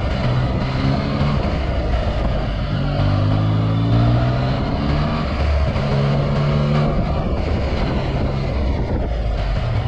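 2018 Yamaha XSR900's three-cylinder engine through an Akrapovic carbon full exhaust, pulling under way. Its pitch rises and drops several times as the revs change through the gears.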